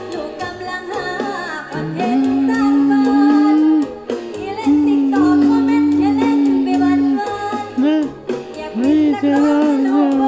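A young girl singing a Thai Isan song over band accompaniment, holding long notes with wavering ornaments and pausing briefly twice.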